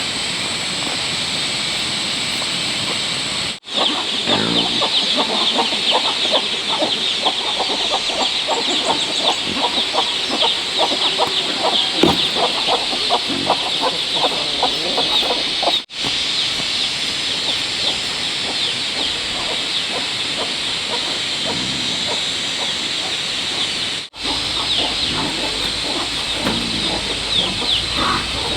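Chickens clucking, with a steady high chirping over them. The sound drops out suddenly and briefly three times.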